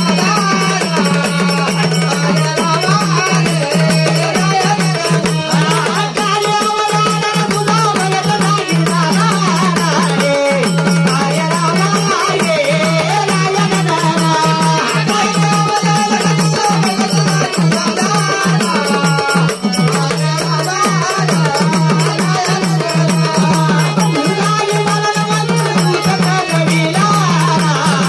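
Gondhal folk music: dense drumming and a wavering melody over a steady low drone.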